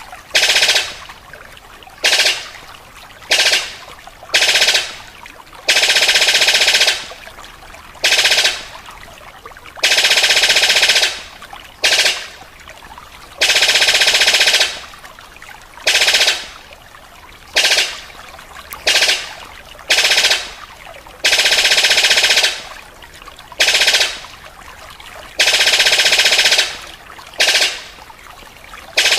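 Recorded bird song of the 'sabit' bird played back loudly: dense rapid trills in bursts of half a second to two seconds, repeating every one to three seconds, each tailing off quickly.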